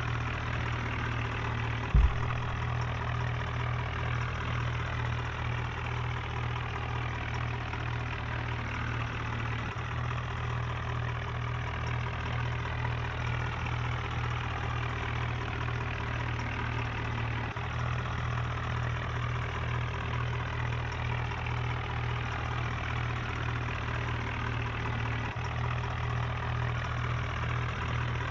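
Tractor engine idling steadily, with one short thump about two seconds in.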